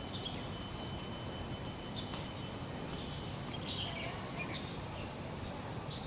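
Steady outdoor city background noise with a few short, high bird chirps scattered through it. A thin steady high tone runs through the first half and stops.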